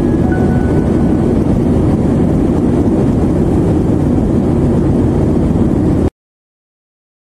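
Steady, loud engine and airflow noise inside a jet airliner's cabin, with the lower second note of a two-tone cabin chime in the first second. The noise cuts off suddenly about six seconds in.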